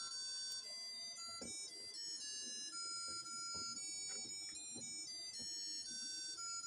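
Tinny electronic chip melody of plain beeping notes, one at a time, changing every few tenths of a second, like the built-in music of a crystal ball party light, with a few faint knocks under it.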